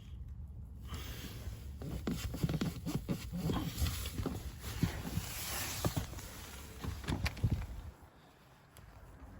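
Irregular clicks and light knocks with some rustling, from hands and a tool working around the steering shaft joint just after its bolt was tightened; it goes quieter about eight seconds in.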